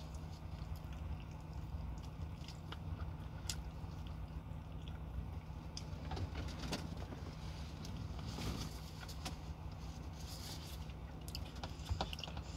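Eating sounds: bites into crispy fried chicken, chewing, and plastic-glove rustles as scattered short crackles and clicks, over a steady low hum inside a truck cab.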